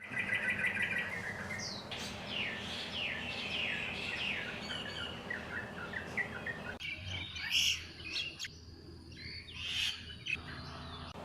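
Birds singing in the early morning: a fast trill at first, then a long run of repeated notes each sliding downward, about two a second. About seven seconds in the background drops away suddenly and sharper, higher chirps follow.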